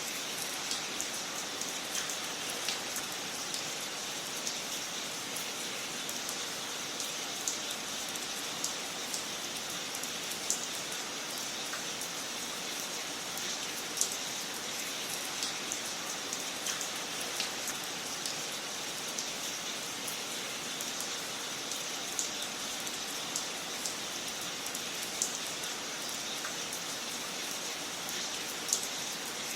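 Wood fire crackling in a fireplace: a steady hiss with irregular sharp pops, a few of them louder than the rest.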